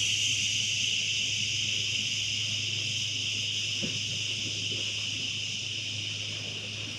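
A long, steady 'shhhhh' breathed out through the teeth: the liver sound of the Taoist Six Healing Sounds, slowly getting quieter as the breath runs out. A faint low hum lies underneath.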